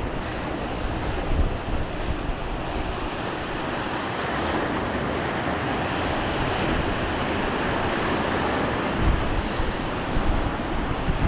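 Black Sea surf washing steadily onto the shore, with wind buffeting the microphone in low gusts that grow stronger near the end.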